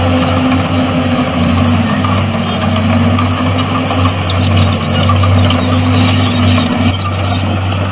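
Heavy diesel engine of earthmoving machinery running steadily with a deep hum, easing off slightly near the end.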